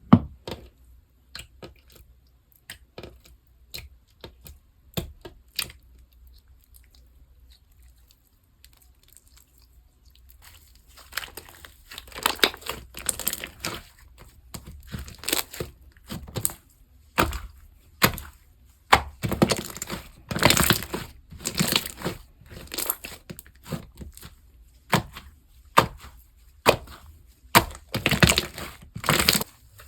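Slime being handled: sharp, sticky clicks and pops, sparse at first, then a quieter stretch, then denser crackling and popping from about a third of the way in.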